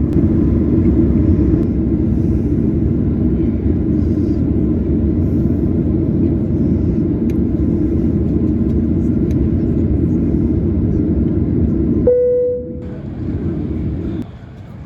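Steady low rumble in the cabin of a Boeing 737-900ER at the gate. About twelve seconds in, a single cabin chime sounds and the rumble drops, then drops again sharply near the end.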